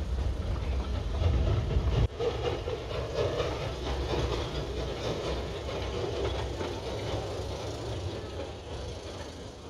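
Small narrow-gauge locomotive, number 58, pulling open passenger cars slowly past, with a steady rolling, clattering sound of wheels on the track. A heavy low rumble in the first two seconds stops abruptly.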